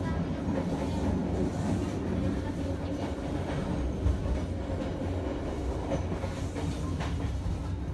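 Passenger train running along the track, heard from inside the carriage: a steady low rumble of wheels on rails, with a sharper clack about four seconds in.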